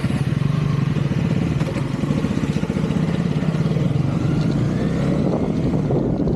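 KTM Duke 200's single-cylinder engine running steadily as the motorcycle is ridden.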